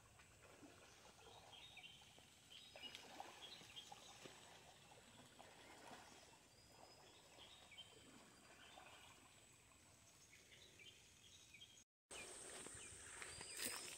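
Faint rural ambience: scattered short bird chirps over a low hiss, with a steady thin high tone. About twelve seconds in, the sound drops out for a moment and comes back as a louder hiss.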